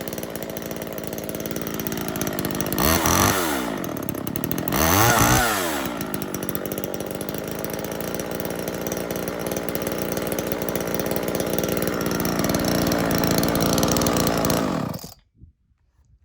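1979 Homelite XL two-stroke chainsaw running after a cold start, revved up and back down twice a few seconds in, then running steadily and smoothly before it is switched off abruptly near the end.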